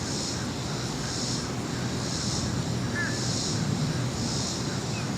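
Distant airliner rumbling faintly, heard but not in view, under a high-pitched buzz that pulses about once a second, with one brief chirp about three seconds in.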